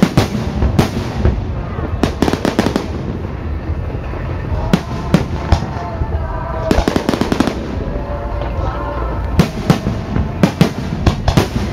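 Fireworks going off in clusters of rapid sharp cracks and bangs over a continuous low rumble, with a few seconds of lull in the middle before a dense run of cracks near the end.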